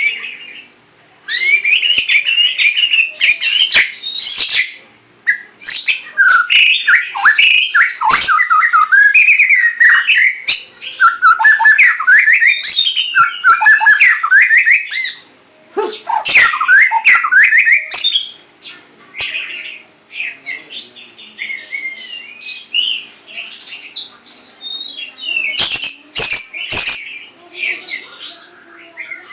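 Pet songbird singing a long, varied song of rapid chirps, trills and whistles, busiest in the first half and more broken up later, with a few sharp clicks.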